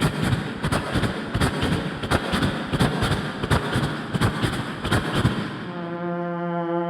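Vocal and beatbox imitation of a train: rapid percussive chuffing strokes, about three a second, give way about six seconds in to a low, steady horn-like blast.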